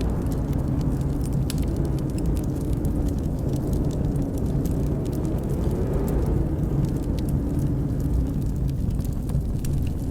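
Steady low rumble of blizzard wind with a wood fire crackling over it: many small, sharp pops scattered throughout.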